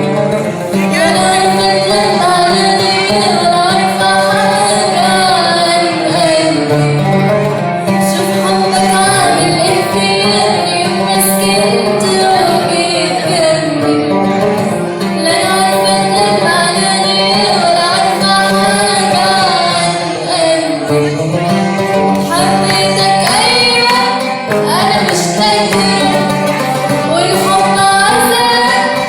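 A woman singing a song in Arabic over instrumental accompaniment, the sung melody bending and sliding in pitch.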